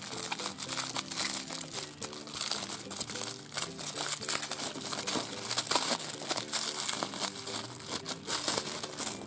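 Thin clear plastic bag crinkling and rustling in irregular crackles as fingers unwrap a small toy from it.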